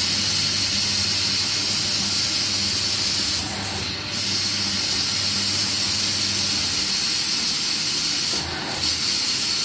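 Washing machine taking in water at the start of a wash cycle: a steady rushing hiss of water through the inlet valve over a low hum, dipping briefly twice.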